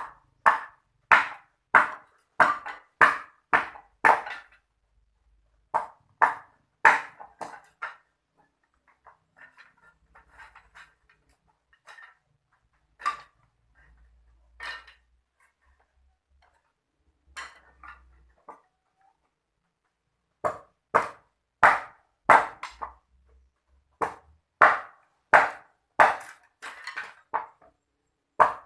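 Repeated sharp knocks or strikes, about three every two seconds, each with a short ring. They come in runs, with a quieter stretch of faint, scattered taps in the middle.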